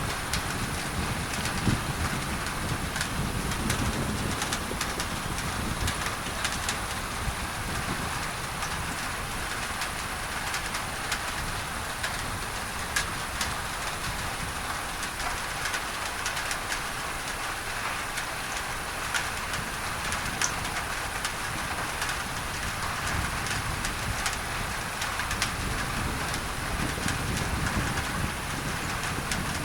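Steady rain on a tin roof, many single drops ticking through it, blended with a constant layer of masking noise. A low rumble swells near the start and again near the end.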